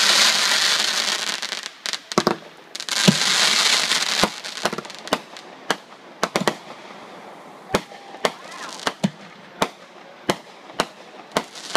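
Fireworks going off: two spells of dense crackling hiss in the first four seconds, then a steady string of single sharp bangs, about one every half second to a second.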